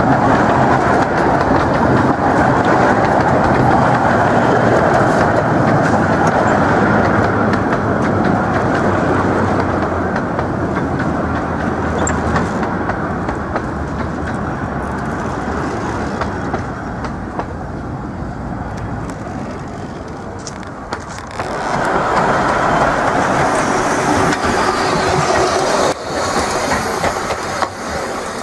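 A 15-inch gauge miniature railway train heard from aboard its carriages: the steady running noise of the wheels on the track, slowly growing quieter. About three quarters of the way through it changes suddenly to a different, brighter train sound with a hiss on top.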